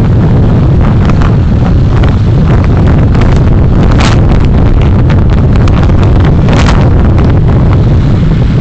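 Car on the move heard through a dashcam microphone: a steady, loud low rumble of road, engine and wind noise. Two brief hissing swooshes come about four seconds in and again about six and a half seconds in.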